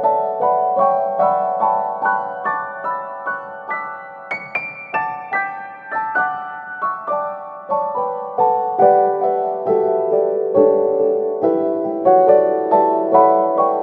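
Gentle solo piano music: a steady stream of single struck notes, each fading away, at an even pace of about two to three a second, with a melody that climbs about four seconds in and then drifts lower.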